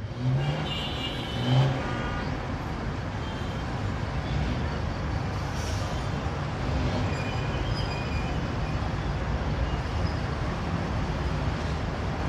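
Road traffic: vehicle engines running with a steady rumble and hiss.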